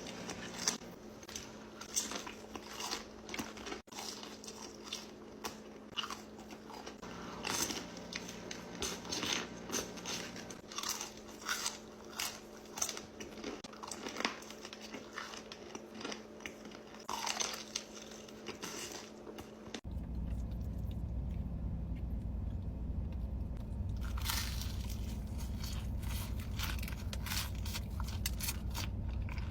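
Close-up eating sounds: repeated crunchy bites and chewing of crisp food. About two-thirds of the way through, a steady low hum comes in under a few more crunches.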